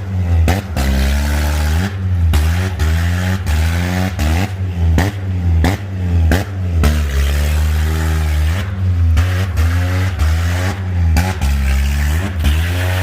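Open-exhaust VTEC Honda Accord engine revving hard in a burnout, its pitch climbing and dropping again and again, about once a second, with brief cuts. Spinning tyres make a steady hiss underneath.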